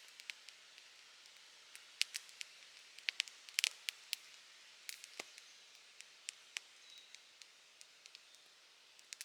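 Open wood fire crackling: irregular sharp pops and snaps over a faint hiss, with a quick run of louder pops about three to four seconds in.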